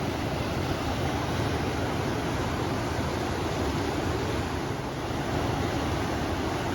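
A river flowing with wind blowing over it: a steady, unbroken rush of water and wind noise.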